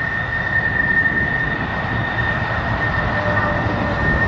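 Jet fighter engine sound effect: a steady rushing noise with low rumble and a constant high whine, growing a little louder in the first second.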